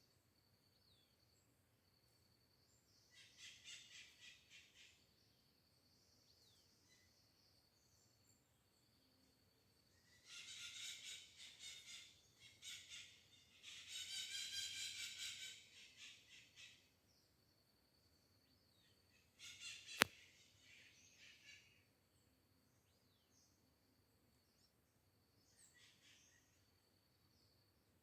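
Birds singing in short, fast trilled phrases several seconds apart, over a faint steady high-pitched tone. A single sharp click about twenty seconds in.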